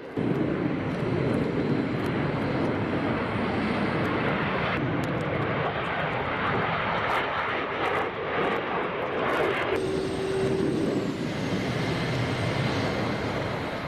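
Jet aircraft engine noise, a steady rushing sound that changes character abruptly about five and ten seconds in, with a faint high whine slowly falling near the end.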